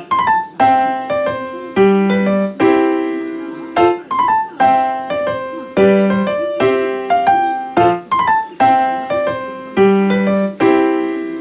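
Background music: a solo piano-like keyboard playing a gentle repeating melody, struck notes that ring and fade, the phrase coming round about every four seconds.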